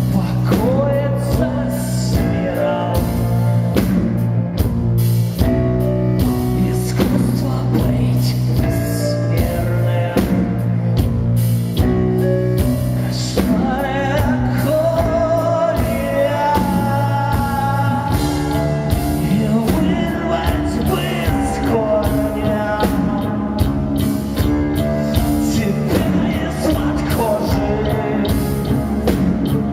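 Live rock band playing a song, with drums and a singing voice over the band.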